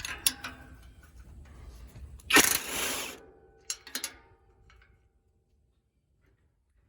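Tools working on exhaust bolts: a few sharp metallic clicks, a loud noisy burst of under a second about two and a half seconds in, two more clicks about a second later, then near silence.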